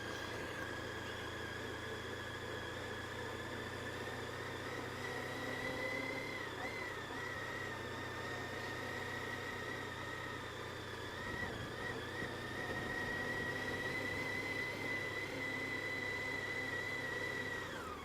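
Motorcycle under way at steady speed: a low engine hum under a high, steady whine that creeps slightly higher in pitch and falls away sharply at the end as the bike slows.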